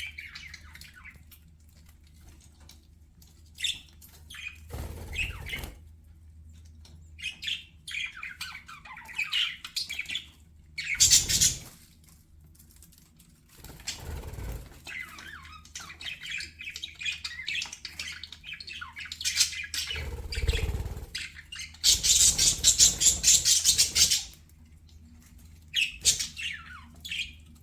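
Budgerigars chirping and warbling in short bouts, rising to a loud burst of dense chatter about three-quarters of the way through. Several short broad noises come between the bouts, over a steady low hum.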